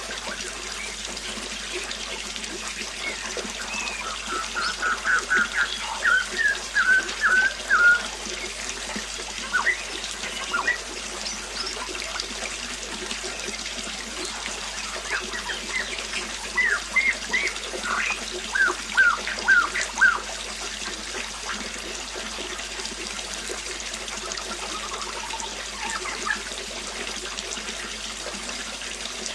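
Water trickling steadily, with a bird chirping in two runs of quick short notes over it, the first about a sixth of the way in and the second just past the middle.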